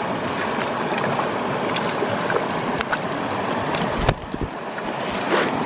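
Mountain brook running over rocks, a steady rush of water. Small clicks come through it, with a sharper knock about four seconds in.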